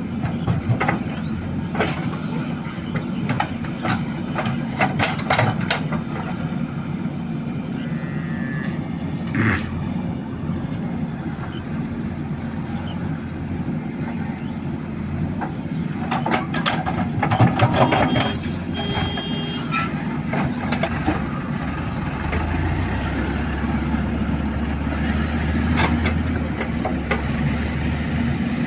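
Diesel engines of a JCB 3DX backhoe loader and a tractor running steadily, with scattered clanks and knocks from the working machinery and a deeper low drone joining near the end.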